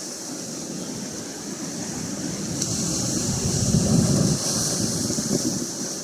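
Atlantic Ocean surf washing in, swelling to its loudest about four seconds in, with wind rumbling on the microphone. A high steady hiss joins about halfway through.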